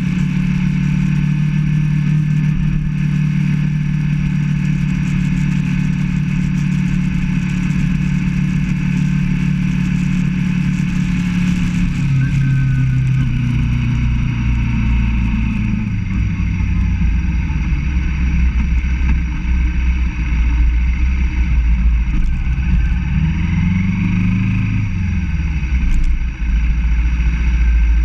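Motorcycle engine running at a steady pace, its pitch stepping down about twelve seconds in and sinking further as the bike slows. Near the end it revs up briefly and drops back, with wind rumble on the microphone throughout.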